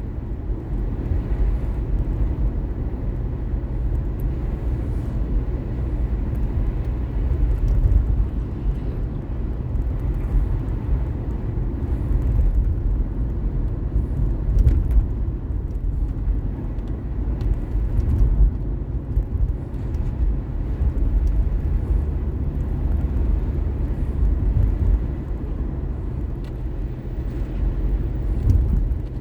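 A car driving along a road, heard from inside the cabin: a steady low rumble of tyres and engine that swells and eases slightly with the traffic and road surface.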